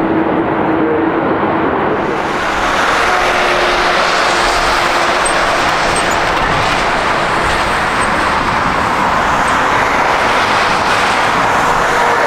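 Jet airliner engines running loud and steady, the noise swelling and getting brighter about two seconds in.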